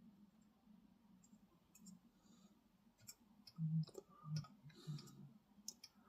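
About three seconds of near quiet, then a scatter of light, sharp clicks and taps with a few soft low knocks, from small tools and plastic model parts being handled during chipping and weathering.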